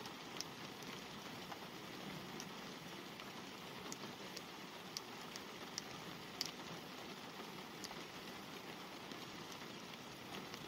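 Light rain falling on a car's glass, heard from inside the car: a steady soft patter with scattered sharper drop ticks, one louder tick just past the middle.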